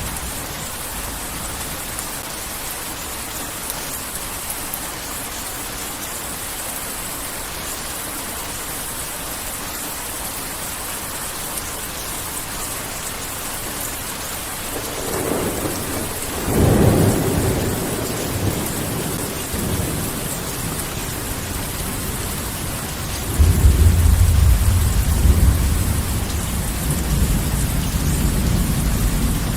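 Heavy rain falling steadily. Thunder rolls in about halfway through, and a louder, deeper clap of thunder breaks near the end and keeps rumbling.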